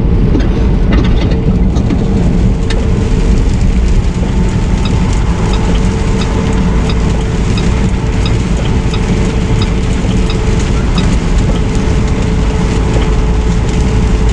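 Semi truck driving, heard from inside the cab: a steady engine and road drone with a held low hum. From about five seconds in, a light ticking comes roughly twice a second.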